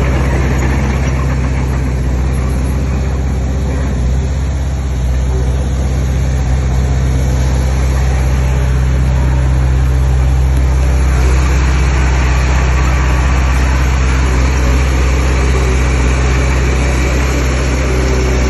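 Diesel engine of heavy earthmoving machinery running steadily, a deep low hum; it gets a little louder about halfway through.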